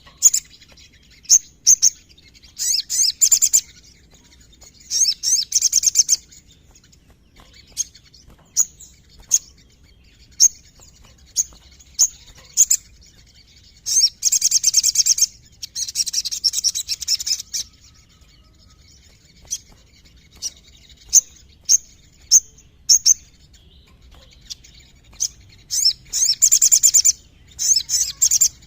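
Crimson sunbird (sogon) song: sharp, high single chip notes scattered irregularly, broken by rapid trilled bursts of one to two seconds each, several times.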